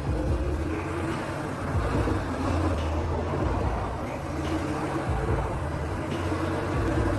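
Heavy truck engine running with a steady low drone, with road and tyre noise.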